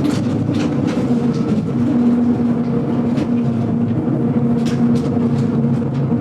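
GoldenPass Belle Époque train running, heard from inside the carriage: a steady rumble with a constant hum and irregular clicks and knocks from the running gear.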